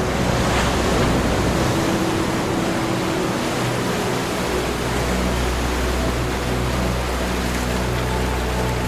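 Ocean waves washing ashore in a continuous, even surf hiss.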